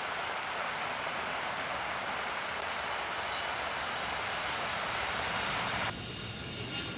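Aircraft engine noise: a steady rush with a thin high whine that grows stronger toward the end. The noise drops suddenly about six seconds in.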